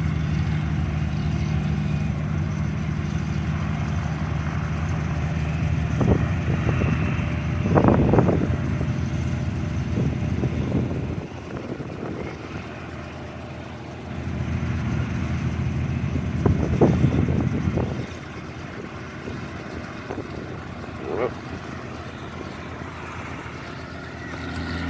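Helicopter running at idle on the ground, warming up before takeoff: a steady low engine-and-rotor hum. The hum fades about eleven seconds in, swells back for a few seconds, then drops again, with a few brief rushes of noise over it.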